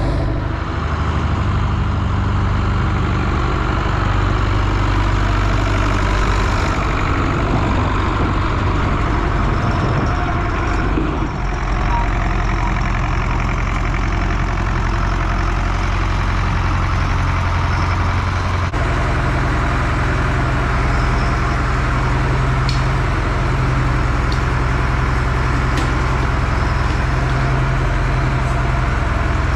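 A heavy vehicle engine idling steadily, its low pitch shifting slightly about two-thirds of the way through.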